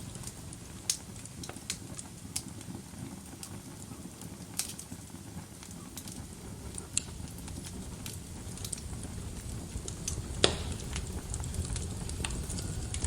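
Fire burning in a fireplace: a steady low rumble of flames with scattered sharp crackles and pops, the loudest pop about ten seconds in.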